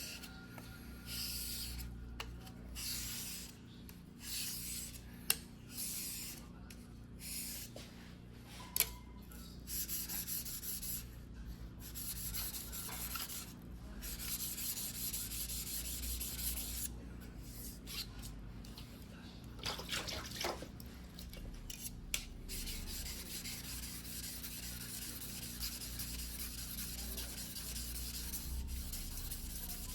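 Steel blade of a single-bevel fuguhiki sashimi knife being rubbed back and forth on a wet whetstone by hand, a gritty scraping rasp. It comes in separate uneven strokes at first, then runs almost continuously from about halfway, with a few sharp clicks of the blade against the stone.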